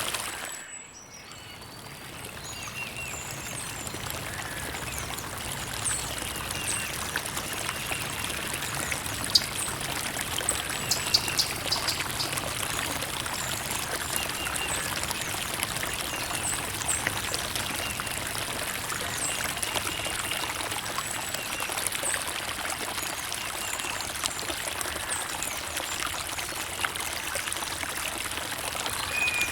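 Creek water trickling and running steadily. Its level dips sharply about a second in, then swells back over the next few seconds.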